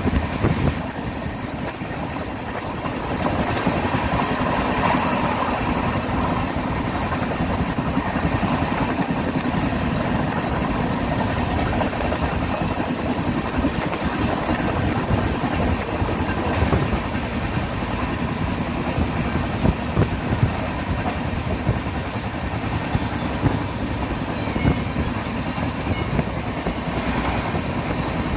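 Express train running along the track, heard from on board: a steady rumble of wheels on rails, with a few sharper knocks in the second half.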